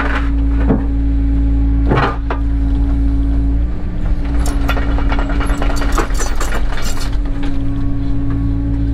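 Cat 307 excavator's diesel engine running steadily, its note shifting about four seconds in. Over it come sharp knocks and clinks from the working bucket and attachment, a dense run of them from about four and a half to seven and a half seconds in.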